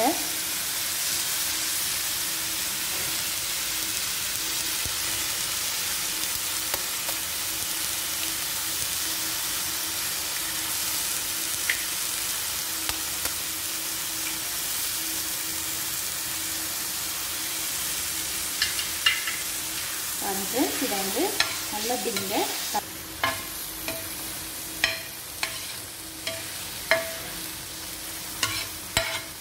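Egg and onion-tomato mixture sizzling steadily in oil on a dosa tawa. From about twenty seconds in, a spatula scrapes and taps repeatedly against the tawa as the eggs are scrambled.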